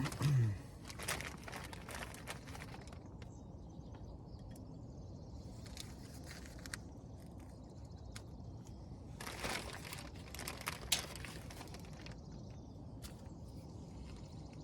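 Handling of small brake hardware and its packaging: scattered light clicks and rustles, a few a little louder about two-thirds of the way through, over a low steady background hiss.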